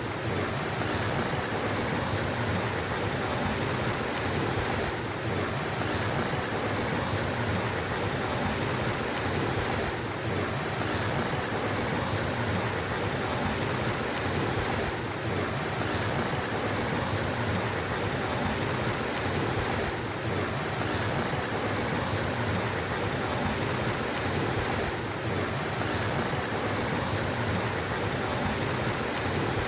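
Steady rush of flowing stream water, even and unbroken, with a slight dip in level about every five seconds.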